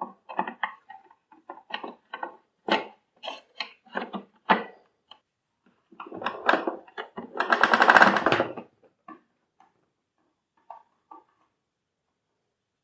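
Plastic parts of a vacuum cleaner being handled and fitted back together: a run of clicks and knocks, then a brief rapid rattle about seven to eight seconds in, and a few light ticks after it.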